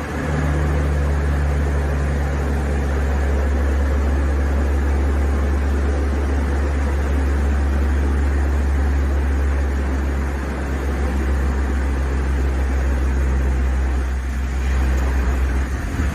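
Firefighting water-scooping plane running on the water, its engines giving a steady low drone under a continuous rushing hiss.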